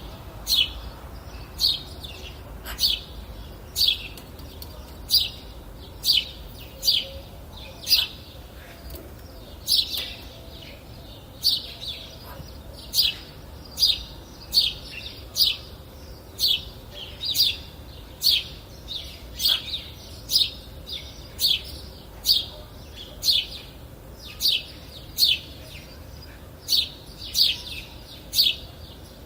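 Bird chirping: short, high chirps, each sliding down in pitch, repeated about once or twice a second over a faint steady background hiss.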